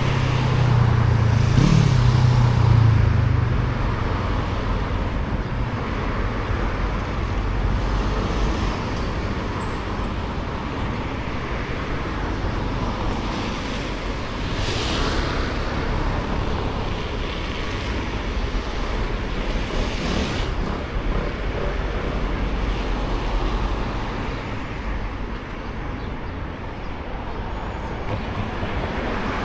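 Street traffic: a steady wash of passing cars, with one vehicle going by close and loud in the first few seconds, then a few more cars swishing past.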